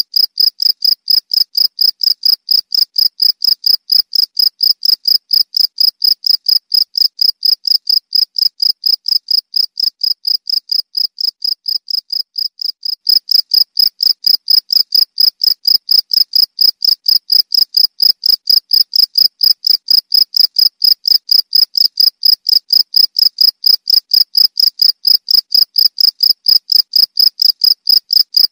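Cricket chirping in a steady, even rhythm of high-pitched chirps, about four a second. It grows somewhat quieter for a few seconds, then jumps back louder about halfway through.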